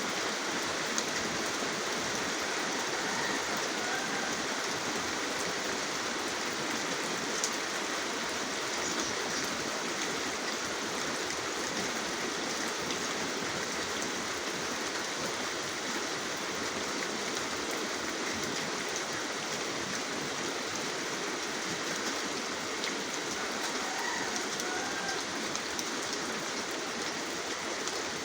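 Steady rain falling, a dense, even hiss of drops that holds without a break.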